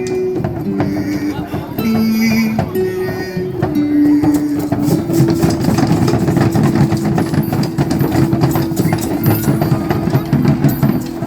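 A percussion group drumming in a dense, fast rhythm under a pitched melody line. The melody moves between notes for about five seconds, then holds a single long note.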